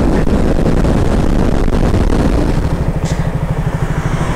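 Motorcycle engine and wind noise while riding at road speed. About halfway the sound changes to a motorcycle engine idling with an even, steady pulse, and there is one brief click near the end.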